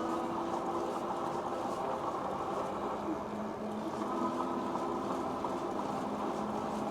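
Ariel Rider X-Class 52V e-bike's electric motor whining steadily under way, over a low rumble of tyres and wind.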